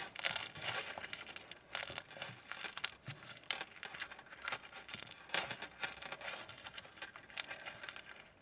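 Slime being squeezed and worked by hand, giving a run of quick, irregular crackling and popping clicks.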